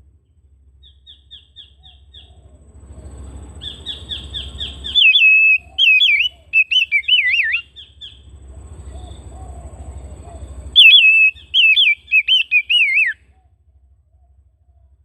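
Oriental magpie-robin (kacer) singing: a quick run of repeated high notes, then two loud bursts of rich, sliding whistled phrases with a pause of a few seconds between them.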